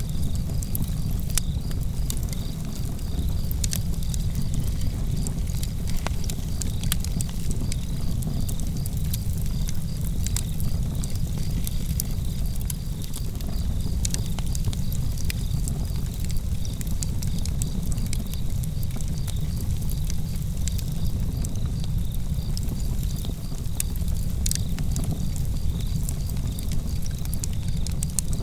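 Campfire crackling with scattered sharp pops, over a low steady rumble, while crickets chirp in a steady, even pulse.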